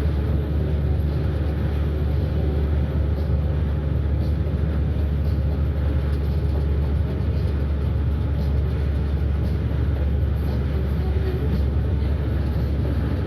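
Moving bus heard from inside the cabin: a steady low rumble of engine and road noise.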